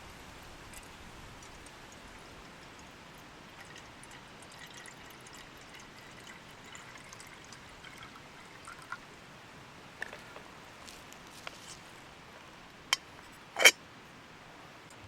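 A thin trickle of liquid being poured, soft and steady, with small ticks around it. Near the end come two sharp clicks, the second the loudest.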